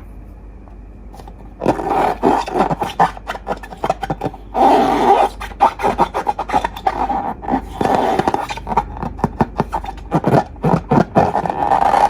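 Slime being squeezed and worked in long rubber balloons: a dense, irregular run of quick squelching crackles that starts about a second and a half in and goes on in short bursts.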